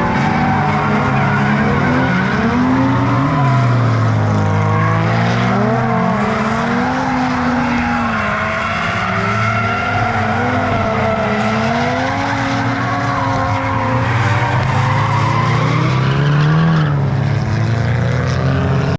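Several drift cars running together, their engines revving high with pitches rising and falling, over screeching tyres as they slide through a corner.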